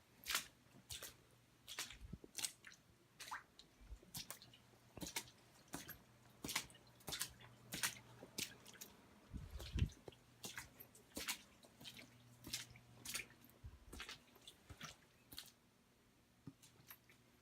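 Footsteps on a damp floor, a soft tap or squish about once or twice a second at an uneven pace, over a faint steady low hum.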